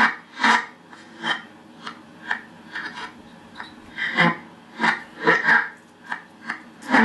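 Reversed, sped-up spirit box audio played from an MP3 player: a choppy run of short garbled snippets, about two a second, some voice-like, others noisy.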